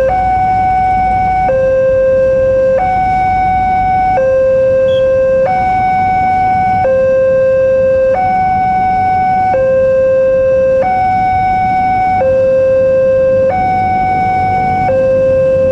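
Electronic railroad level-crossing warning alarm sounding: two steady notes, high then low, each held about a second and a half, repeating over and over.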